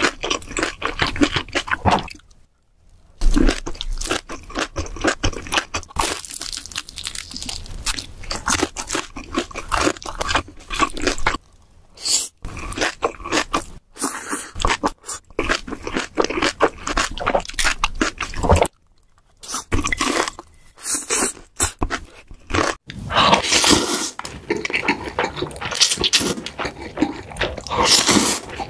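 Close-miked eating sounds: chewing and crunching of mouthfuls of food, a dense run of wet clicks and crackles, broken by a few short silences.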